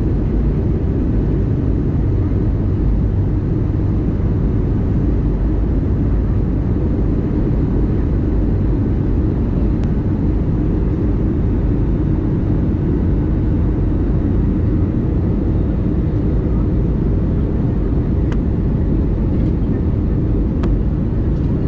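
Steady low rumble of an Airbus A320neo in flight, heard inside the passenger cabin: engine and airflow noise, even and unchanging, on the descent towards landing.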